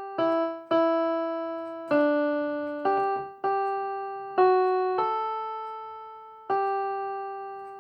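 Piano-type keyboard playing a slow single-line melody, one note at a time, about eight notes, each struck and left to ring and fade before the next.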